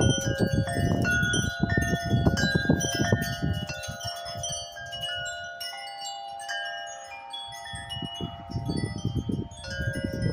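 Wind chimes ringing in gusty wind: many tones of different pitch struck irregularly and ringing on over one another. Wind rumbles on the microphone for the first few seconds and again near the end.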